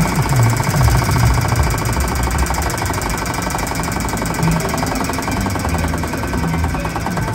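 Casino slot machine sounds during a free spin: a fast, even electronic rattling with steady tones over it.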